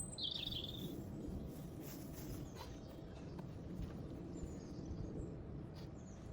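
Quiet outdoor background rumble with a short warbling bird call near the start and a few faint clicks.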